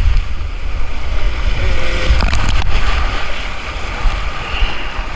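Water rushing down a water-park tube slide, with heavy wind rumble on the microphone as the tube slides along. It eases off a little near the end.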